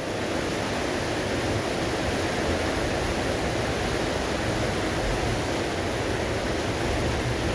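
Heavy rain pouring down in a steady hiss, heard from under a metal roof.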